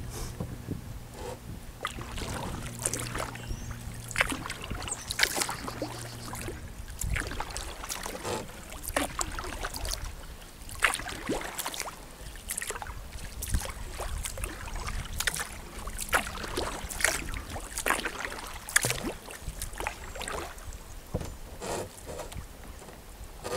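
Kayak paddle strokes in calm creek water: blades dipping and splashing at an uneven pace, with drips and small knocks. A steady low drone stops about seven seconds in.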